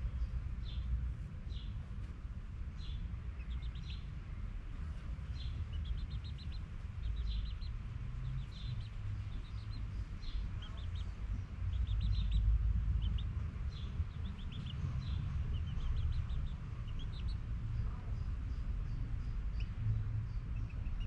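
Birds chirping over and over in short high chirps and quick little trills, over a steady low rumble.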